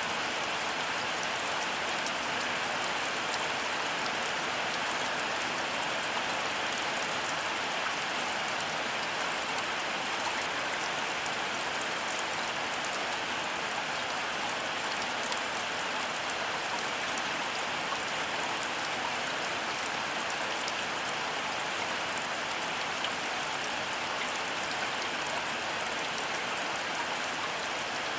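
Heavy rain falling steadily: an even hiss dense with fine drop patter, with no change in strength.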